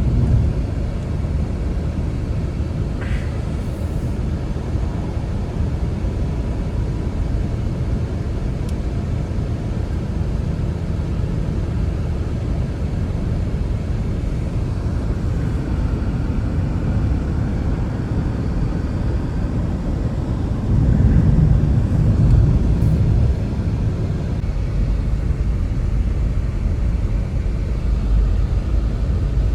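Blizzard wind blowing as a steady low rumble, with a louder gust about two-thirds of the way through.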